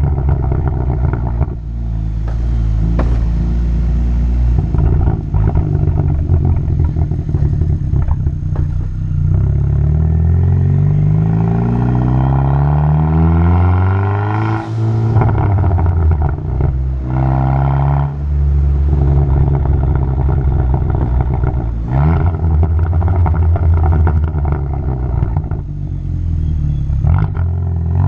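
Muffler-deleted exhaust of a 2020 Hyundai N Line car, recorded from outside. The engine holds steady between several revs that rise and then drop away.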